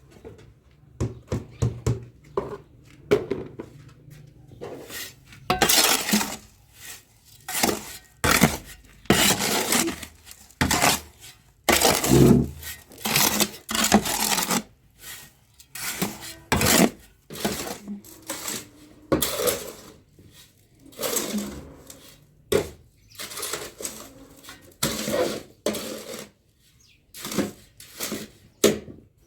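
Dishes, pots and cutlery clinking and scraping irregularly during food preparation, with many short knocks and rasping strokes.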